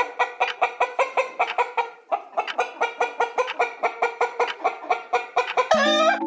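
Hen clucking in quick runs of short clucks, about five a second, with a brief pause about two seconds in, ending in a louder drawn-out call near the end.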